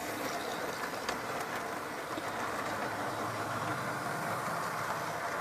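Model railway train running along the track: a steady electric-motor whir with a few light clicks from the wheels on the rails.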